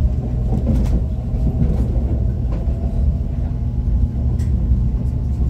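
ITX-Maum electric multiple-unit train running on the rails: a steady low rumble with a faint hum and a few light clicks.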